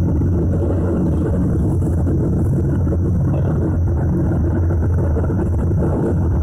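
Keisei 3050-series electric train running, heard from inside the car: a steady rumble of wheels on track and running gear.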